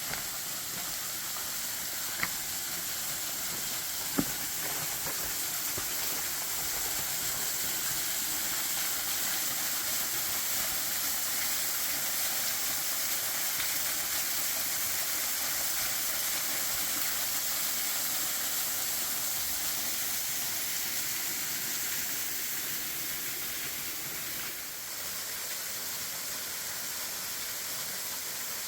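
Steady hiss of rushing water from a creek in high flow after a thaw and heavy rain. Two short sharp clicks come about two and four seconds in.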